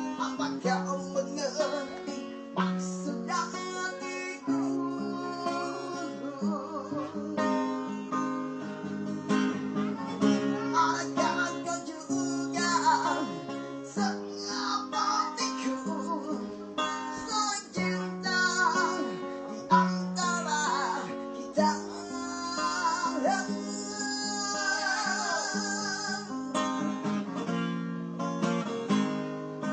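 Music: acoustic guitar playing an instrumental passage of a song, chords with a gliding melody line above them.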